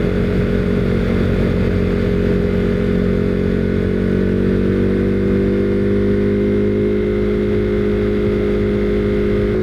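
Husqvarna Svartpilen 401's single-cylinder engine running steadily at cruising speed, with its pitch holding nearly level.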